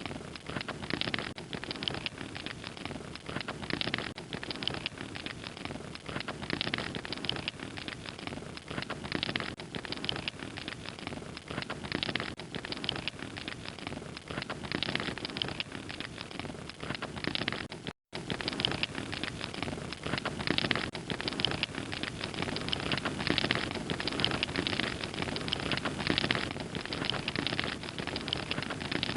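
Log fire crackling and popping steadily, many small snaps over a soft hiss. The sound cuts out completely for a split second about two-thirds of the way through.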